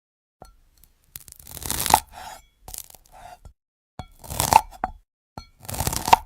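A knife slicing through brittle glass-like fruit three times. Each cut is a crackle that builds and ends in a sharp snap, about two seconds in, midway and at the very end, with lighter crunching between.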